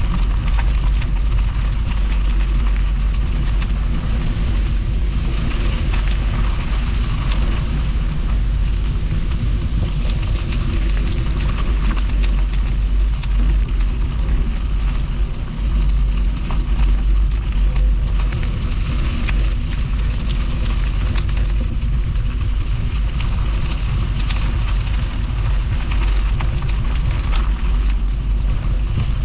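Wind buffeting the microphone of a camera on a moving bicycle, a steady low rumble, over the fine crackle of bicycle tyres rolling on a crushed-stone towpath.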